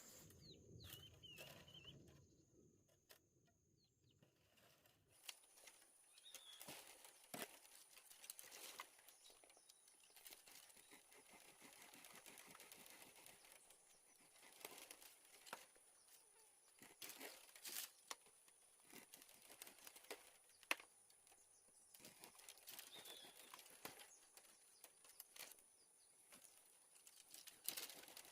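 Near silence with faint, scattered clicks and rustles.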